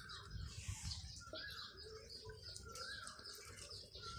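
A small animal giving a series of faint, short chirping squeaks, each rising and then falling in pitch.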